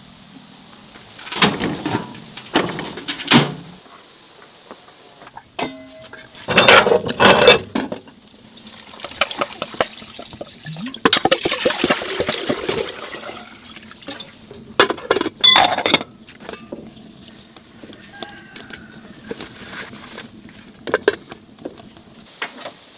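Water pouring and splashing in several bursts of a second or two, the longest near the middle, with sharp knocks and clatter of handled objects in between.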